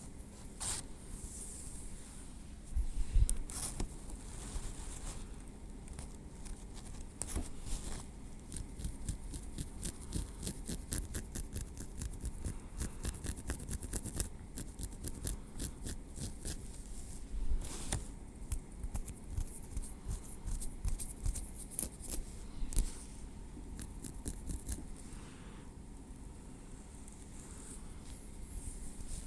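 Metal tweezers clicking and scraping through hair against the scalp, in quick runs of light ticks a few a second, with a louder rustle of hair about three seconds in.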